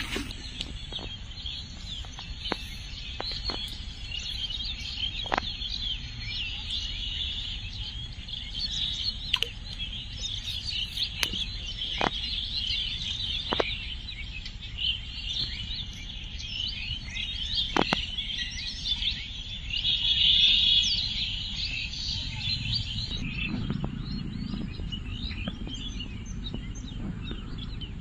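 Birdsong: many small birds chirping and twittering continuously, with a louder burst of chirping about two-thirds of the way through, and a few sharp clicks.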